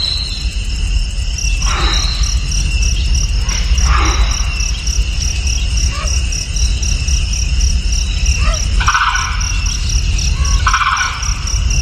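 Insects trilling steadily in a fast, even pulse, with a whistled call that falls steeply in pitch and repeats about every two seconds, over a constant low rumble.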